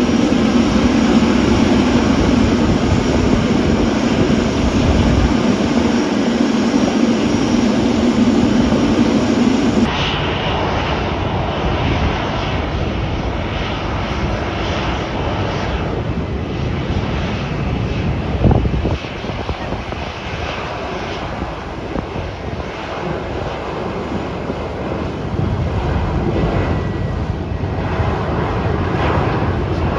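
Airliner engines running at an airport, a loud steady drone whose character changes abruptly about a third of the way in, with a brief thump a little past halfway.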